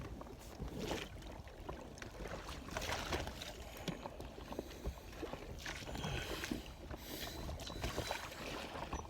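Water splashing and sloshing around a small boat in irregular swishes every couple of seconds, over a constant low rumble.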